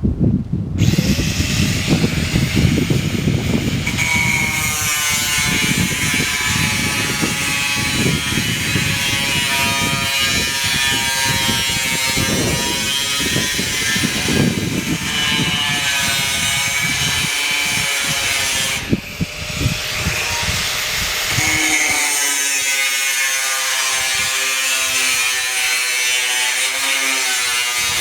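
Power tool cutting steel roofing sheet, its motor running with a steady whine over a hissy cutting noise. It stops briefly about two-thirds of the way through and then starts again.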